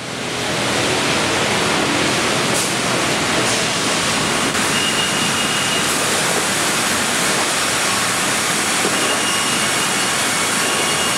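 Sawmill machinery running: a loud, steady noise that swells up in the first second, with faint short high whines that come and go.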